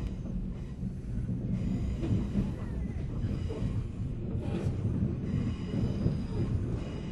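Running noise heard inside a JNR 485-series electric train's motor car, a steady low rumble of wheels on rail and the running gear as the train moves at reduced speed under a strong-wind slow order.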